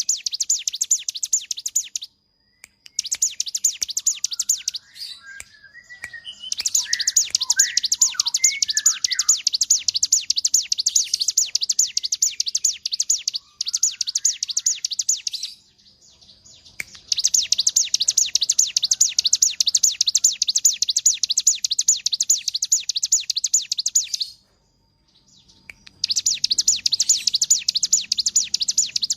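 Ciblek gunung (cigun), a small prinia, singing its rapid, high chattering trill in long bursts of several seconds, broken by short pauses. A few lower separate chirps come in about six to nine seconds in.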